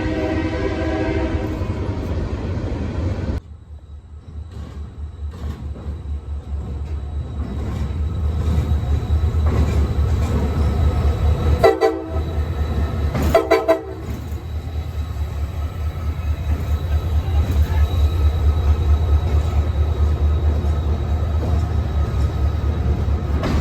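Locomotive horn sounding a chord that breaks off in the first couple of seconds. Then a train's low rumble builds up with a regular pulse, two short horn blasts sound about halfway, and the train runs past steadily.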